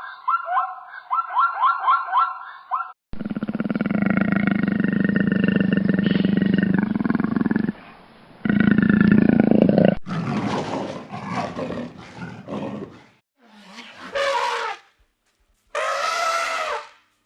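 A run of separate wild animal calls cut one after another: a rapid, repeating chirping at first, then a long, loud, deep roar lasting several seconds, then shorter calls near the end.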